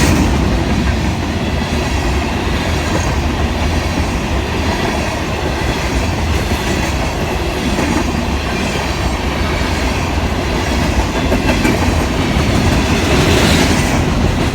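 Union Pacific freight train rolling steadily past: a continuous loud rumble and clatter of its wheels on the rails, swelling slightly just at the start and near the end.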